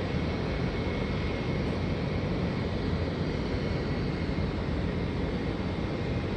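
Boeing 737 jet airliner landing, its engines giving a steady rumble with a faint high whine.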